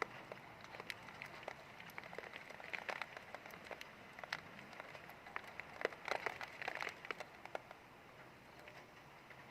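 Rain falling, with irregular drops ticking sharply on a hard surface over a soft steady hiss; the drops come thickest a little past the middle and thin out near the end.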